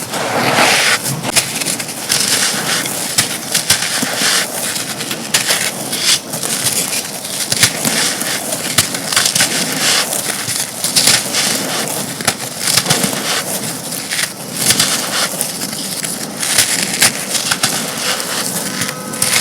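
Dry, brittle chunks being crumbled and crushed: a dense, continuous run of crisp cracks and crunches with louder bursts every second or so.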